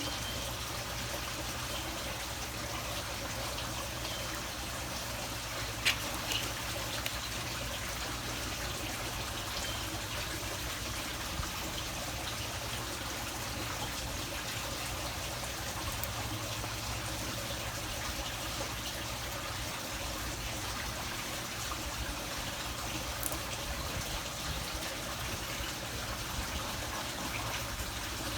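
Steady trickling water, with a sharp click about six seconds in.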